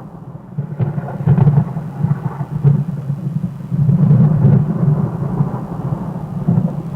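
Low rumble of thunder that swells and fades in several waves.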